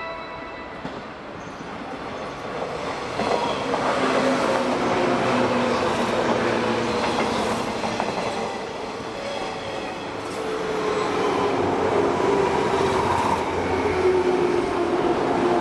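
JR East 185 series express electric train running past close by. It gets louder about three seconds in, and several tones slowly fall in pitch through the second half.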